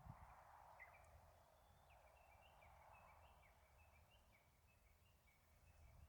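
Near silence, with a small bird faintly twittering in a quick run of short high chirps from about two seconds in.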